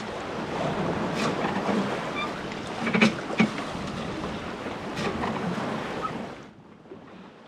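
Sailboat under way at sea: water rushing and sloshing along the hull with wind on the microphone, and a few sharp knocks from the boat. The sound drops to a much quieter hush about six and a half seconds in.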